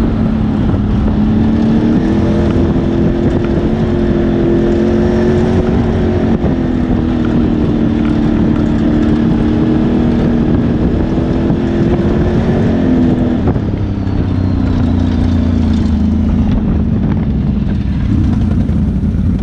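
ATV engine running under throttle on a trail, its pitch wavering slightly, then dropping about thirteen seconds in.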